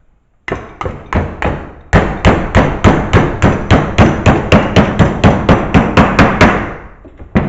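Hammer striking a sheet-metal patch piece clamped in a vise, bending a one-inch flange over along a marked line. A few spaced blows start it, then about two seconds in comes a fast, even run of about four strikes a second that stops about six and a half seconds in, with one last blow near the end.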